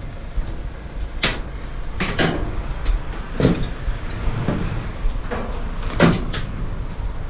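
A handful of short sharp knocks and clunks, the loudest about six seconds in, over a steady low rumble: scrap items being handled around a van.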